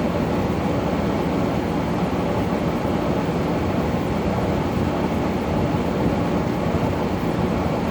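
Brand-new LG air conditioner running with its compressor on: a constant mechanical hum with a rush of air from the fan, steady throughout.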